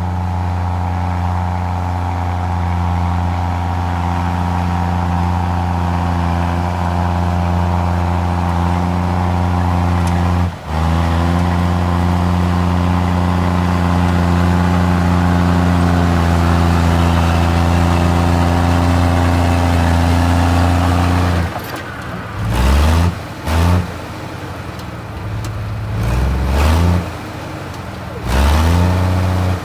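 Komatsu D53E bulldozer's diesel engine running steadily under load, with a brief break about ten seconds in. From about twenty-one seconds in, the engine revs up and down repeatedly in short surges.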